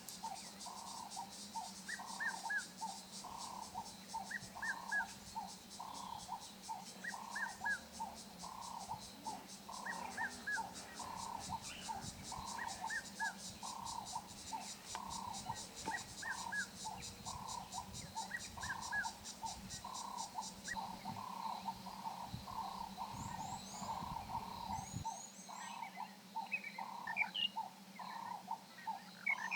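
Waterhole wildlife chorus. A high, rapidly pulsing insect trill stops about two-thirds of the way through. Under it, a steady rhythm of lower calls comes nearly twice a second, with short chirps every second or so. Birds chirp near the end.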